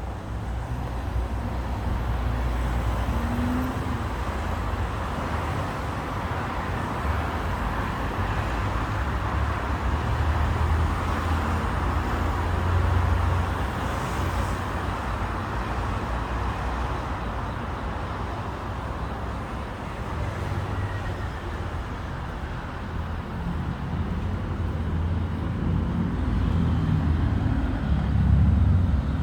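Steady road traffic: cars passing with a low rumble, swelling as vehicles go by and loudest near the end.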